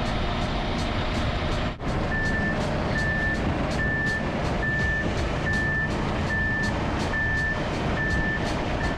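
Concrete mixer truck's diesel engine running with its reversing alarm beeping a little faster than once a second, starting about two seconds in.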